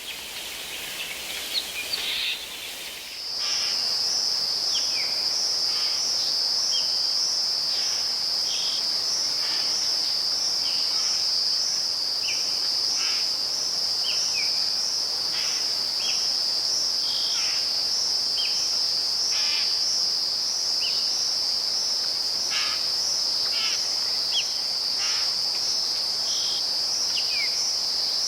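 Rainforest insect chorus: a loud, continuous high trill that starts about three seconds in, with short chirping calls from other animals scattered beneath it. Before the trill starts there are only quick bird-like chirps.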